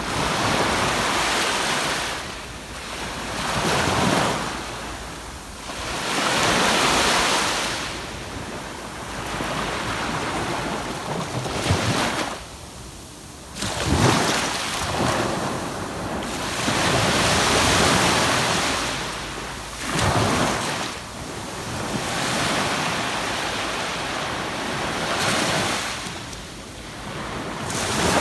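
Ocean waves breaking and washing up a sandy beach, swelling and fading every few seconds, with a short lull about halfway through. Wind buffets the microphone.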